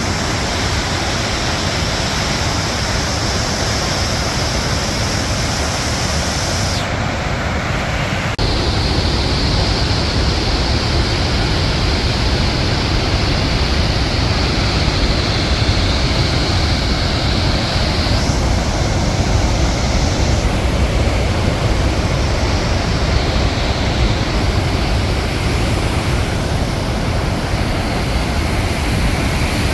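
Large alpine waterfall crashing: a steady rush of falling water that gets a little louder about eight seconds in.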